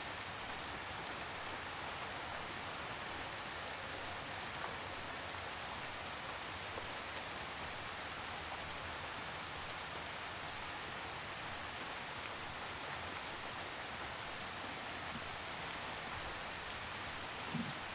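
Gentle drizzle falling steadily: an even, unbroken hiss of rain.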